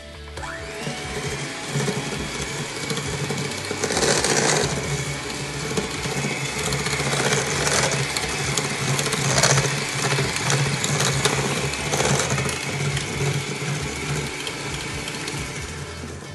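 Electric hand mixer running, its beaters whisking butter, sugar and egg in a stainless steel bowl. The motor spins up about half a second in and then runs steadily, with louder clattering moments now and then.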